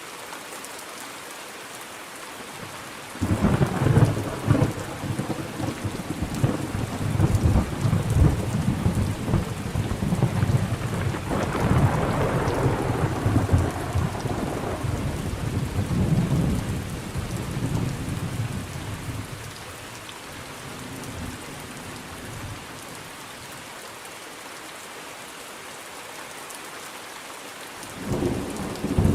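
Steady rain falling, with thunder: a peal starts suddenly about three seconds in and rolls on for some fifteen seconds before fading. A second peal begins near the end.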